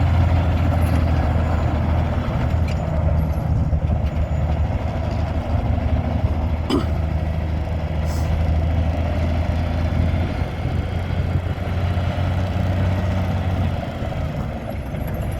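1999 Peterbilt water truck's diesel engine idling steadily, with a single sharp click about seven seconds in.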